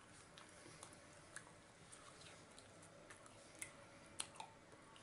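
Faint chewing of a slice of pepperoni pizza with a crunchy crust, mostly soft mouth sounds with scattered small clicks; two sharper clicks come about three and a half and four seconds in.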